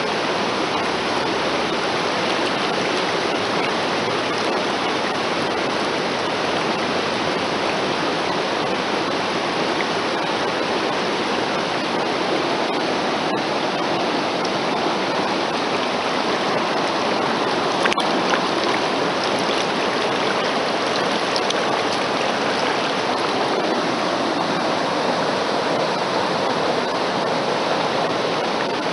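Mountain stream's rushing water, a steady, unbroken noise.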